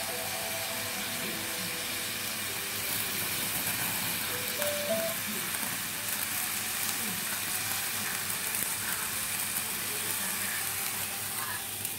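Pieces of pork belly sizzling in a small frying pan on a gas stove, a steady frying hiss.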